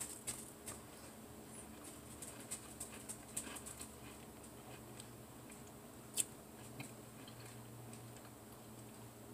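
Faint crunching and small mouth clicks of someone chewing a bite of cracker, with one sharper click about six seconds in.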